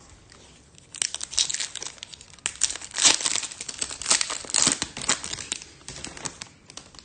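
A foil trading-card pack wrapper crinkling and tearing as it is handled and opened, in a dense run of sharp crackles that starts about a second in and dies down near the end.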